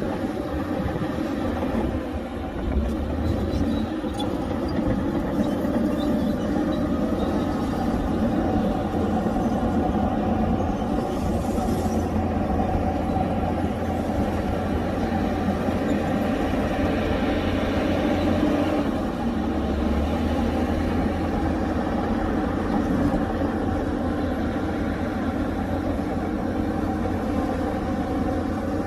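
Heavy diesel earthmoving machinery running steadily under load, its engine note even throughout, with a brief hissier stretch about two-thirds of the way through.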